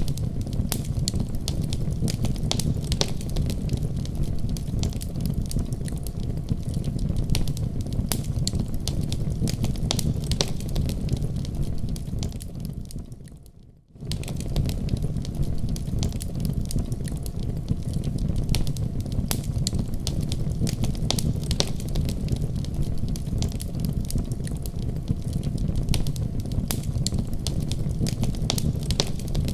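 Wood fire burning in a fireplace: a steady low rumble of the flames with frequent crackles and pops. About twelve seconds in the sound fades away to near nothing, then cuts straight back in a second or so later, a seam where the recording loops.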